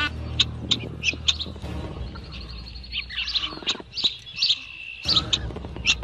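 Birds chirping: a run of short, high, repeated chirps, with a low steady hum underneath.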